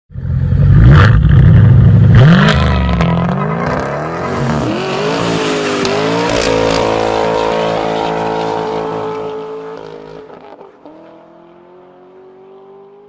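1973 Corvette Stingray V8 running through a custom dual exhaust with Flowmaster 40 series mufflers. It is loud and deep at first, then accelerates with the pitch climbing for a few seconds, holds a steady note, and fades away near the end.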